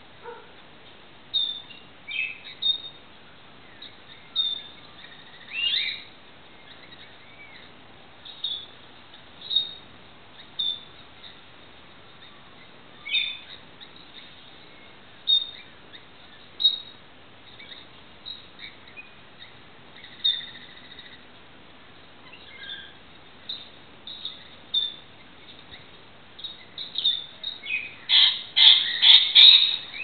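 Wild birds calling: short chirps and calls, one every second or so, then a louder run of rapid calls near the end.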